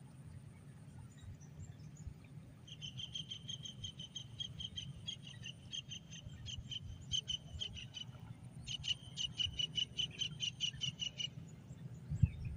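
A bird calling: a rapid series of short, high chirps, all on one pitch, about five a second, in two runs of a few seconds each with a brief break between. A single thump near the end.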